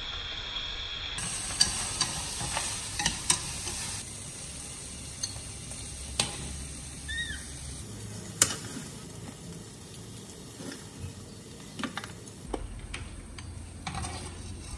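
Crab and green vegetables sizzling as they stir-fry in a pan, with utensils clicking and scraping against the pan. The sizzle drops lower after about four seconds, leaving sharp clicks of a metal ladle against the pan and plate as the food is served, the loudest a single click about eight seconds in.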